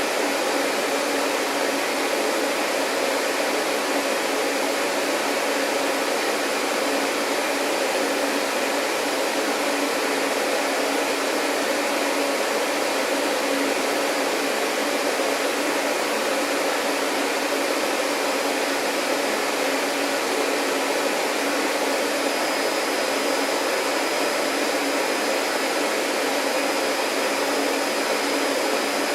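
Vacuum cleaner running steadily, an unbroken whirring hum with no change in speed. A faint high steady tone joins it about three quarters of the way through.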